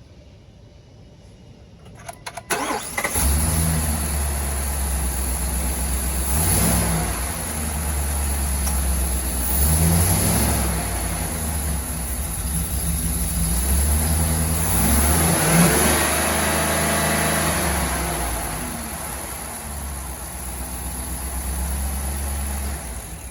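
2022 Ford F-350 pickup engine cranked by the starter, catching about three seconds in, then idling and revved up several times. The engine stops abruptly near the end.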